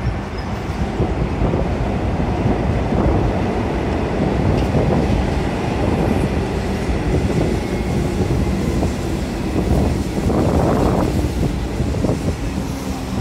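Melbourne Metro electric suburban train crossing a steel truss railway bridge overhead, a loud steady rumble of wheels on the rails and bridge deck, swelling briefly near the end.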